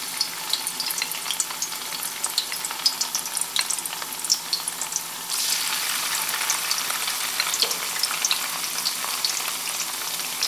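Tofu cubes frying in hot oil in a wok: a steady sizzle with small crackling pops. It grows louder about five seconds in as more cubes go into the oil.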